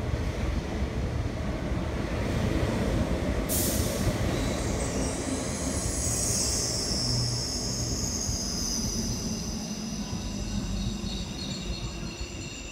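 MTR East Rail Line MLR electric train running past along the platform, its wheels rumbling on the rails. There is a short hiss a few seconds in, and from about five seconds in a high-pitched squeal of several tones rises over the rumble.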